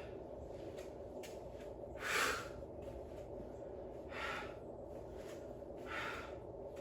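A man breathing hard between sets of weight training, with forceful breaths about every two seconds, the loudest about two seconds in; he is out of breath from the exertion. A steady low hum runs underneath.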